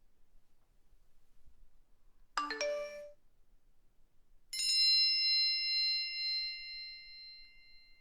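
Two mobile phone notification chimes: a short chime of a few quick notes about two and a half seconds in, then a single bright bell-like ding about four and a half seconds in that rings out and slowly fades.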